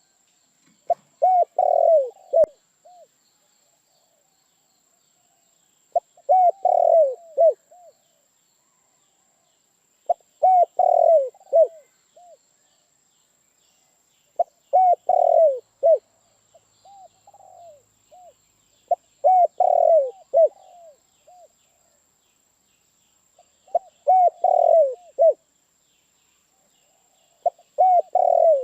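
Spotted dove cooing: a short phrase of several low coo notes, repeated about every four seconds, seven times.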